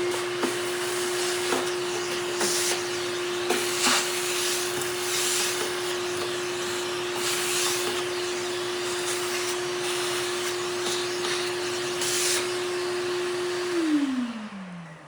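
An electric motor runs steadily with a constant hum and hiss, with a few scattered clicks, then is switched off near the end and winds down, its pitch sliding lower as it coasts to a stop.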